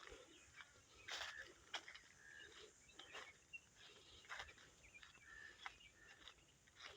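Faint footsteps crunching irregularly on dry ground, with a few short bird chirps.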